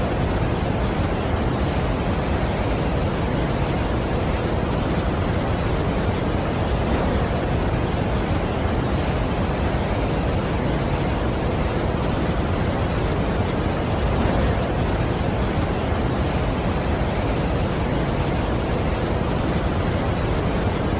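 Large waterfall's steady rushing noise, a constant even wash without breaks or changes.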